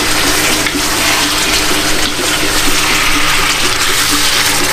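Chicken pieces sizzling in hot oil and butter in a pan over high heat, a steady loud hiss, as they are stirred.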